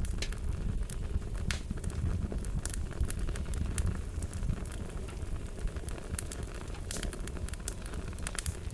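Wood fire crackling: a steady low rumble of flames with scattered sharp pops and snaps, which come thicker near the end.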